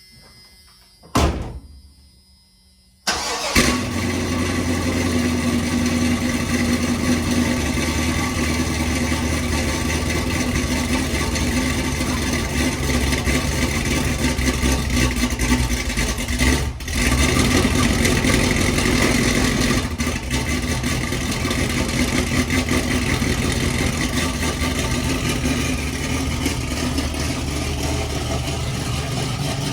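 A 406 cubic-inch small-block Chevy V8 with headers fires up about three seconds in and runs steadily, a cold start after six months of sitting. A brief loud sound comes about a second in, before the engine catches.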